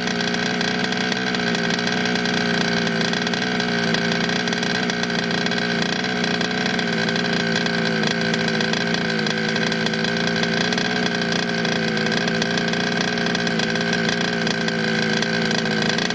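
King Motor Blade 34cc two-stroke engine of a 1/5-scale RC car running steadily at low, even revs, its pitch wavering only slightly, during its first break-in run.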